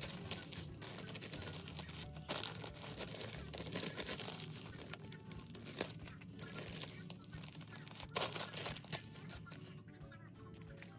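Packaging material being handled: irregular crinkling and rustling with tearing sounds.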